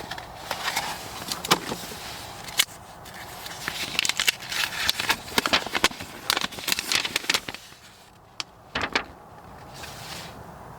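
Handling noises: irregular sharp clicks and crinkly rustling, busiest for the first seven seconds or so, then dying down with a couple of sharp clicks about nine seconds in.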